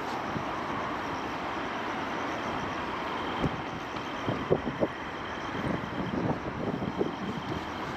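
Steady rumble of city traffic along the riverside. From about halfway through, a scatter of short irregular knocks and thumps sounds over it.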